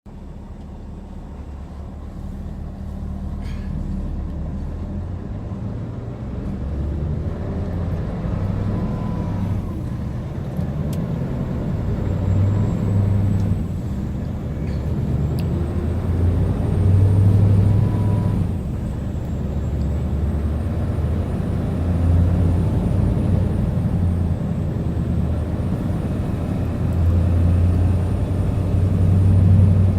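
Scania R580 truck's 16-litre V8 diesel engine running, its deep sound growing louder over the first several seconds and then swelling and easing several times, with brief dips.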